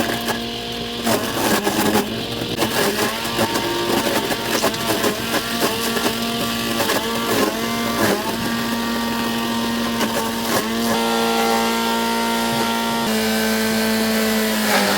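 A small petrol engine running at high speed, its pitch dipping briefly again and again for about ten seconds, then holding steady near the end.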